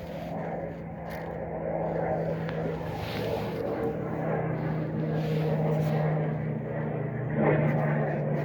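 A car engine running steadily with an even hum, swelling briefly louder about seven seconds in.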